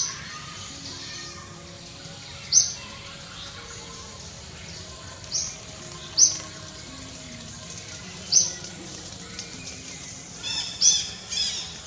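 Birds chirping: short, sharp, high chirps every second or two over fainter bird calls, coming closer together near the end.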